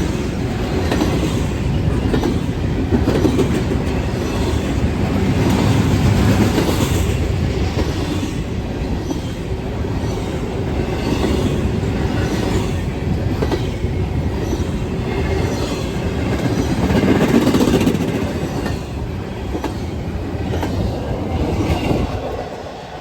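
Freight train cars rolling past, with steady rail noise and the wheels clicking over the rail joints. The sound drops away near the end as the last cars go by.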